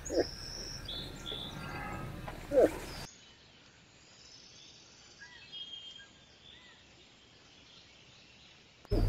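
Moose giving short, rising grunting calls twice in the first three seconds over steady birdsong. Then comes a much quieter stretch with only faint bird chirps.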